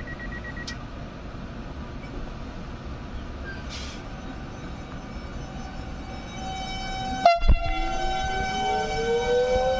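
ETR 204 electric multiple unit pulling out: a rapid beeping stops within the first second, a short hiss comes about 4 s in, and the horn sounds loudly about 7 s in. After the horn, the electric traction motors whine, rising in pitch as the train gathers speed.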